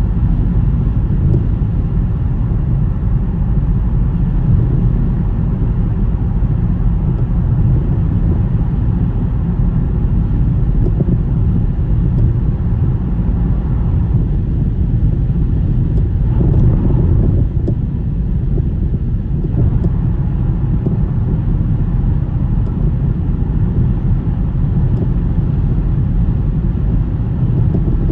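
Steady low rumble of a car driving on a snowy road, with tyre and wind noise and a brief swell about two-thirds of the way through.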